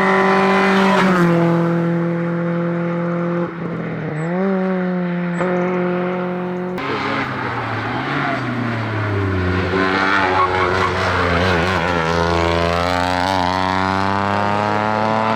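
Small hillclimb race cars' engines at full throttle. First a Kia Picanto, its engine note dropping at upshifts. Then a Toyota Aygo, its note falling as it goes by and then rising steadily as it accelerates hard up the road.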